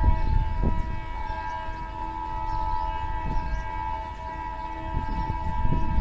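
Train horn held in one long steady blast over the low rumble of a train.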